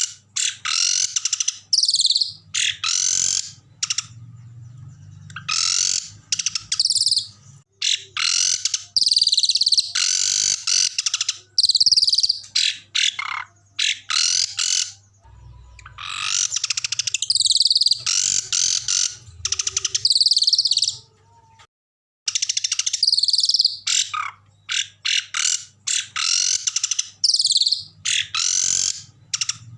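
Songbird singing loud, harsh phrases of rapid rolling trills and sharp chattering notes in bursts of up to about two seconds, separated by short pauses. A faint steady low hum sits underneath, and the song cuts out briefly about two-thirds of the way through.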